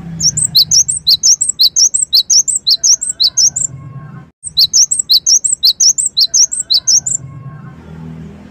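Cinereous tit (gelatik wingko) singing a fast, loud string of repeated high chirping notes, about four to five a second, in two runs broken by a short gap about four seconds in.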